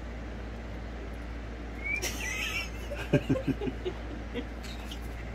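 A parrot gives a short, chirpy squawk about two seconds in. A quick run of about six low, soft huffs follows a second later, like a stifled chuckle.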